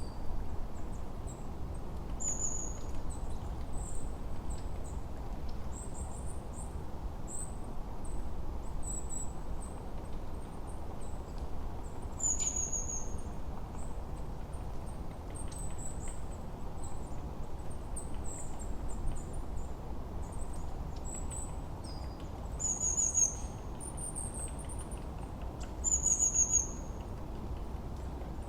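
Forest birdsong: many small birds chirping and calling in short high notes, the loudest a few quick downward-sliding phrases, over a steady low rush of wind.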